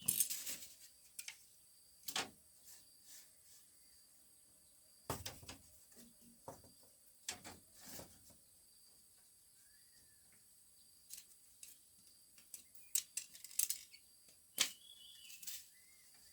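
Irregular knocks, taps and light clatter, heaviest near the start and in clusters about five seconds and thirteen seconds in, with a few faint bird chirps.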